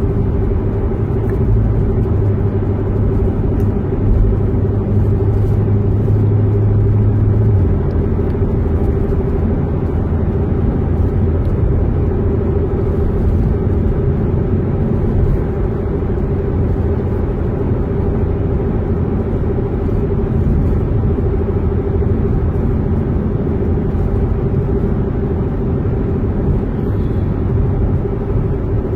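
A Corvette C7 Z06's supercharged V8 and its tyres heard from inside the car while driving: a steady low drone. The engine's low hum drops about seven and a half seconds in.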